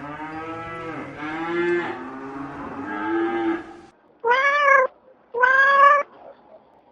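Drawn-out, lower-pitched animal calls, several overlapping, for the first few seconds. Then, after a short break, a domestic cat meows twice, loud and clear.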